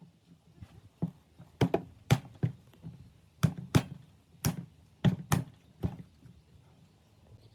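About ten sharp knocks at an uneven pace, several in close pairs, each with a brief ring: hard objects struck or tapped during workshop work.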